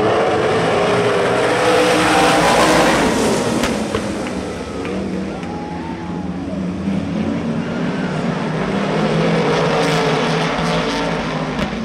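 Sprint car engine running hard on the track, loudest about two to three seconds in and then easing off a little.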